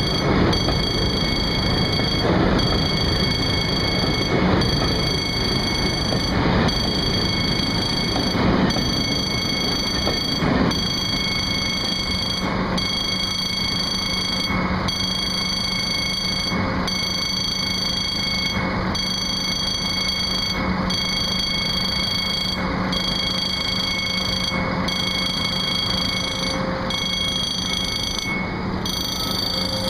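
A train runs steadily through the station under a high-pitched alarm tone, the kind a level-crossing warning gives. The tone breaks off briefly about every two seconds, and a faint thud falls with each break.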